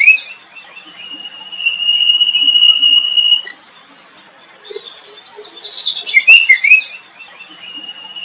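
Songbird singing: a long, steady, high whistled note held for about two seconds, then a fast run of quick chirps. The phrase comes round again about every seven seconds.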